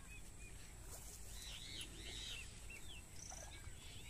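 Several faint, short bird chirps and whistled calls over a quiet rural background with a low rumble.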